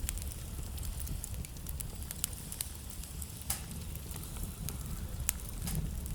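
Wood fire crackling in a fireplace: irregular sharp pops and snaps over a steady low rumble of the burning fire, with a few louder pops about three and a half and five seconds in.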